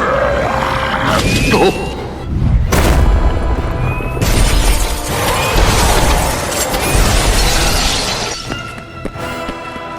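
Background music with crashing, shattering sound effects over a deep rumble. A sharp crash comes about three seconds in, and a long stretch of smashing follows in the middle.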